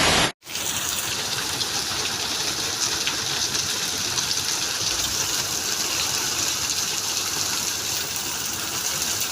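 Heavy rain pouring down in a steady hiss, after a sudden brief drop-out about half a second in.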